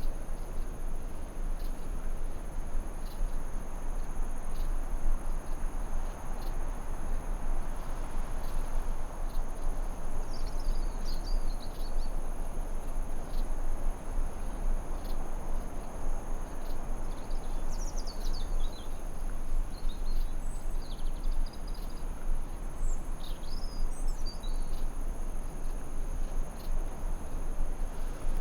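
Forest ambience: a steady rushing noise under a constant high insect trill, with short bird chirps about a third of the way in and several more in the second half.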